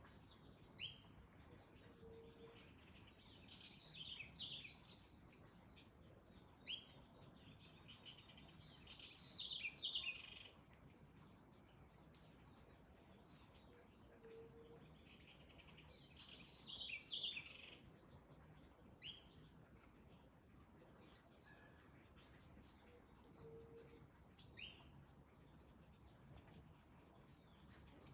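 Faint, steady high-pitched insect trill, likely crickets, with birds calling over it in short falling chirps, a few of them bunched into brief bursts. A soft low note sounds three times, roughly nine seconds apart.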